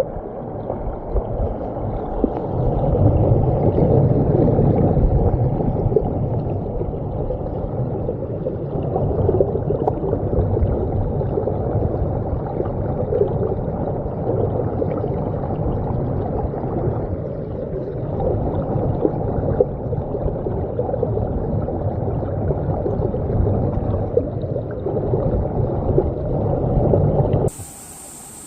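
Stream water gurgling and rushing, heard muffled and deep with little treble. It stops abruptly about a second before the end.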